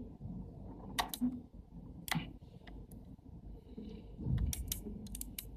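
Sharp clicks and taps of small camera-lens parts being handled and fitted together: a few single clicks, then a quick run of clicks near the end.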